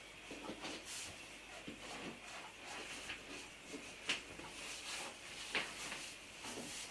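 Oil-based marker pen rubbing and squeaking over the rubber skin of a large inflated balloon in short, irregular strokes, with two sharper squeaks about four and five and a half seconds in. The marker is running dry and barely putting down ink.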